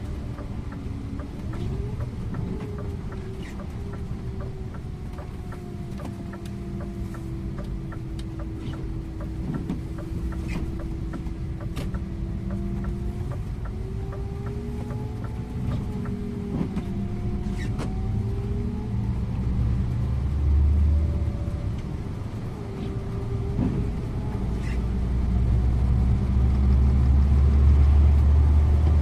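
Scania InterLink bus driving on the road: steady engine and road rumble with a drivetrain whine that slowly rises and falls in pitch, and scattered light rattles. The low rumble swells about two-thirds of the way in and again near the end as the bus pulls harder.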